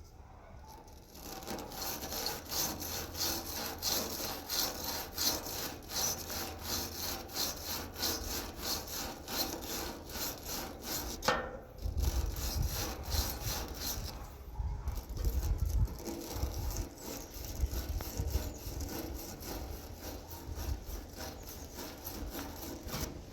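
Wire brush scrubbing a fuel line connection on a truck gas tank, cleaning it so a new fuel line will seat, in rapid back-and-forth strokes with a brief pause about halfway through.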